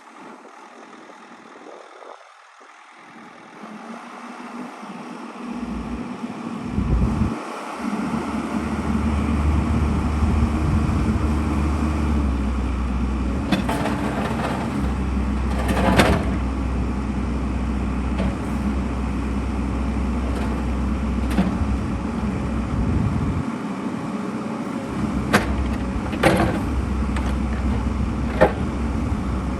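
Bobcat E55 compact excavator's diesel engine running, building up over the first several seconds and then holding a steady low hum. A few sharp knocks and clanks come through from about halfway on.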